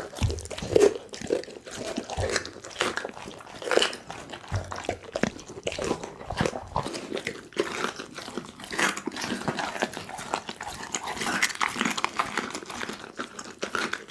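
Pit bull chewing and crunching through a duck head: an irregular run of bites and crunches, several a second.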